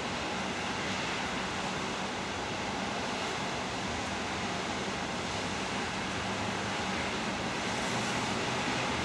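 Steady downtown city background roar: an even, unbroken noise with a faint low hum underneath and no distinct events.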